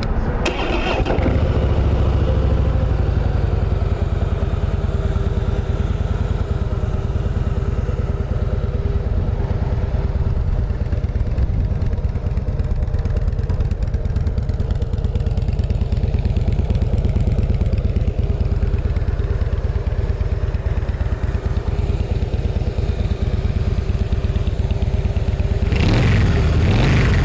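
Harley-Davidson Softail Deluxe's 103-cubic-inch fuel-injected V-twin idling with a steady, lumpy pulse, given a short blip of the throttle near the end.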